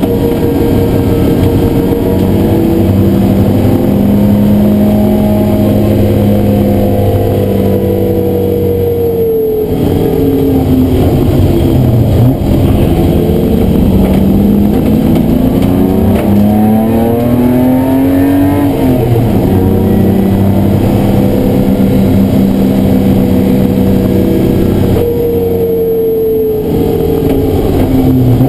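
BMW E30 race car's engine, heard from inside the stripped, roll-caged cabin, running hard on track. Its pitch falls about ten seconds in as the car slows for a corner, then climbs steadily under acceleration with a drop at a gear change, and falls and rises once more near the end.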